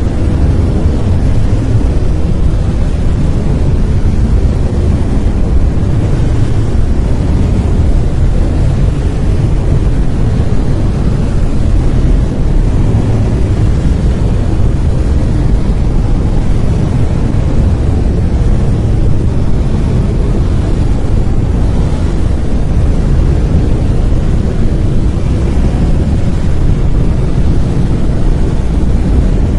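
Steady brown noise: an even, deep rushing hiss, loudest in the bass and rolling off toward the treble, with no change throughout.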